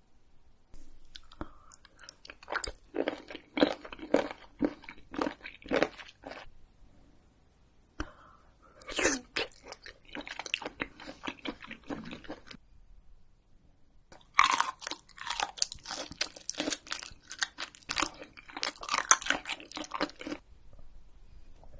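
A person chewing mouthfuls of raw seafood close to the microphone, in three bouts of chewing separated by short pauses.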